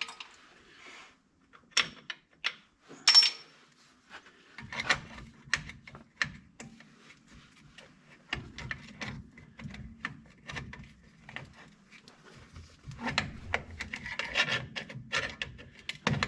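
Metal drum-brake parts and hand tools being worked: irregular sharp clicks and clinks, with rubbing and scraping from about four seconds in, as the brake shoes are being taken off.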